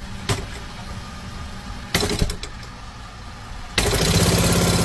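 Car engine running low, then, with the accelerator pedal pressed, a sudden much louder steady drone nearly four seconds in. A short louder blip comes about two seconds in.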